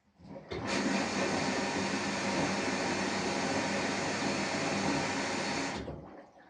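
Samsung Eco Bubble washing machine with an inverter motor working in one burst of about five seconds: a steady rushing noise over a low hum that starts and stops abruptly, typical of a wash-cycle phase running then pausing.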